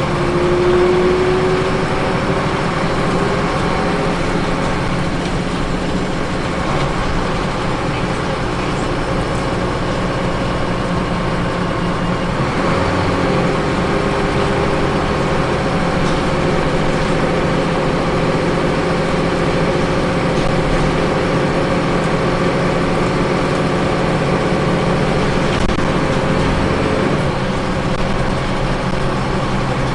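Ethanol-powered Scania L94UB city bus under way, heard from on board: a steady engine and road hum, with a whine rising in pitch in the first couple of seconds.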